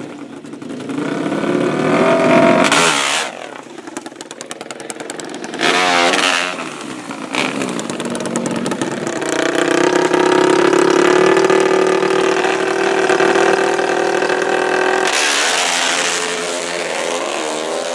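Racing ATV engines revving in short blips, then a long full-throttle run from about nine seconds in, holding a steady high pitch.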